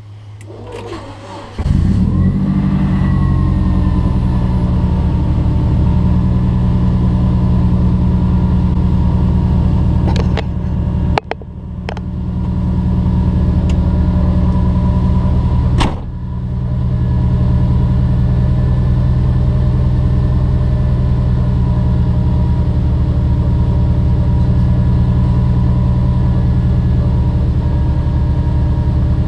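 Turbocharged Subaru flat-four engine, fitted with compound turbos, starting about a second and a half in and then idling steadily, heard from inside the cabin. Two brief clicks come in the middle, each with a short dip in the engine sound.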